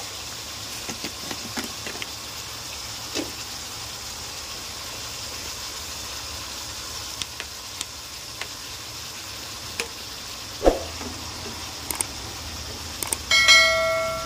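Sliced pork sizzling in hot oil in a wok, a steady hiss with scattered small pops and ticks and a louder knock about ten and a half seconds in. Near the end a click is followed by a ringing bell chime, the subscribe-button sound effect.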